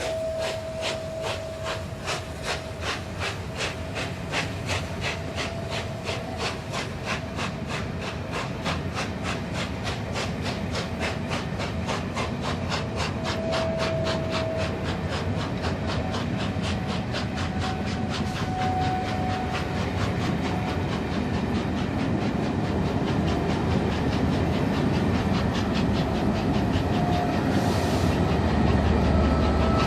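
Peppercorn A1 Pacific steam locomotive's three-cylinder exhaust beats as it works away from a standstill. The chuffs quicken steadily until they run together, and the train noise grows louder towards the end.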